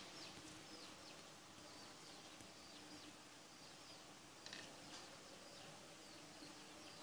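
Faint birds chirping: short, high, falling chirps repeated about every half second, over a faint low steady hum.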